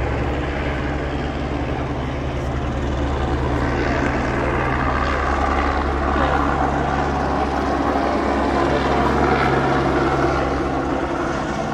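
Aircraft engine drone: a loud, steady low hum with a throbbing pulse and no break.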